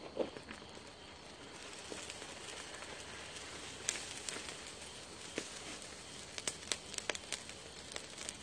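Wood fire crackling, with scattered sharp pops over a steady hiss; the pops come more often in the second half.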